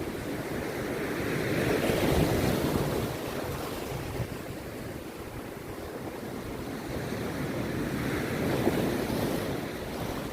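Rough sea surf: two waves break and wash in, the first swelling about two seconds in and the second near the end, each rising and falling over a few seconds.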